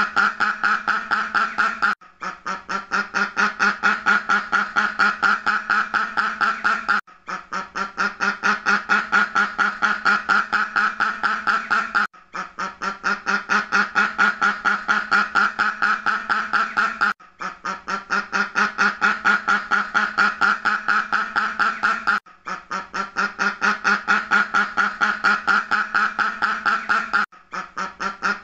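Duck quacking in fast runs of several quacks a second. Each run lasts about five seconds and is broken by a brief pause before the same run starts again: a short recording looped over and over.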